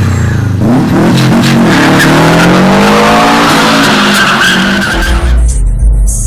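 Turbocharged Subaru Impreza boxer engine accelerating hard, its note rising steadily through the revs. About five seconds in it breaks off abruptly into a low rumble.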